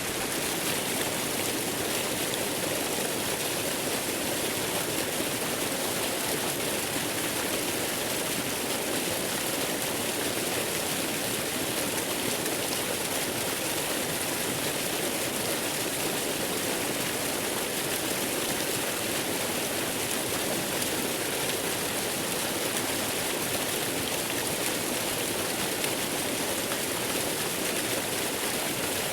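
Waterfall: steady rushing water, an even hiss with no breaks or changes.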